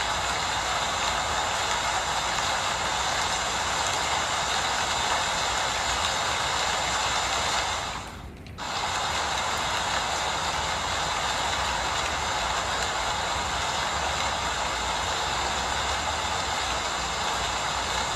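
Steady rain falling, an even hiss that briefly dips about eight seconds in.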